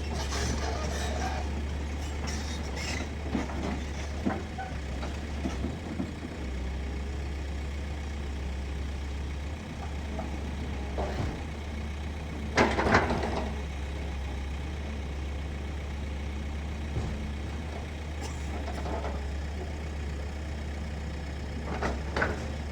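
Heavy diesel machinery running steadily with a low drone as a stuck dump truck is pulled out. A short loud burst comes about thirteen seconds in, with smaller ones near the start and the end.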